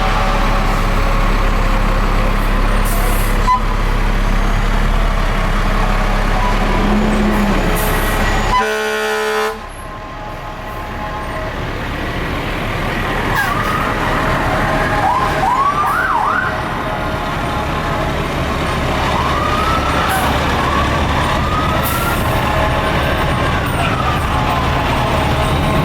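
Fire truck engine running, with a short air horn blast about a third of the way in. In the second half, fire truck sirens wail in repeated rising and falling sweeps.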